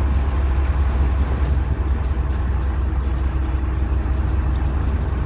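Charter fishing boat's engine running steadily, a low drone under an even hiss of noise.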